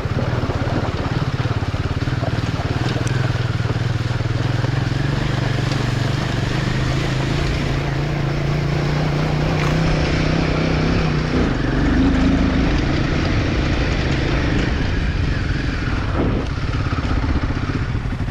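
Royal Enfield Himalayan 450's single-cylinder engine running steadily on the move, its note climbing a little and then dropping about eleven seconds in.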